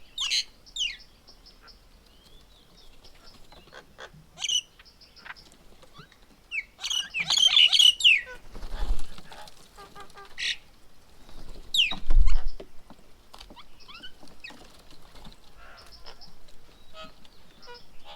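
Wild birds calling at a feeding table: short high whistles and quick downward-sweeping notes, with a loud burst of harsh chattering about seven seconds in. A couple of low thumps come near the middle.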